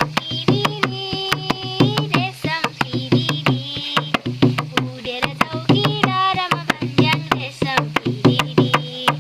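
Nepali folk music: a madal hand drum beating a fast, even rhythm of several strokes a second under a melody.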